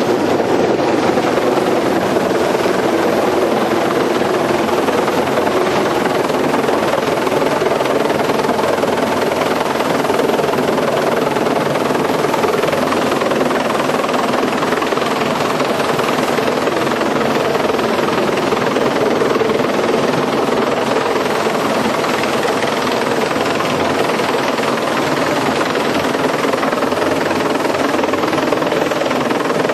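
Helicopter engine and rotor noise heard on board during a ride, loud and steady throughout.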